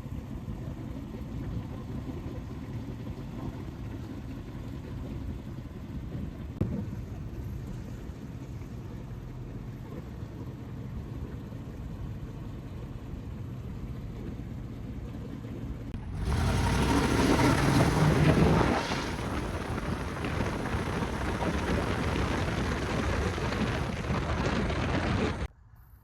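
Truck engine running steadily, likely the 1999 Chevy Tahoe's 5.7 L Vortec V8. About two-thirds of the way through it gets much louder for a few seconds, as if revved or driven off, then stays louder until it cuts off abruptly near the end.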